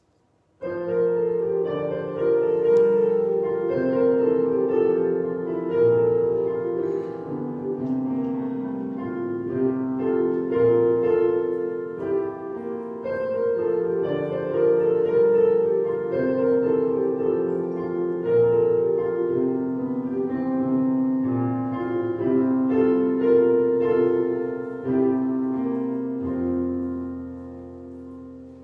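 Piano playing a slow melody over chords; it starts abruptly and closes on a held low chord that fades away near the end.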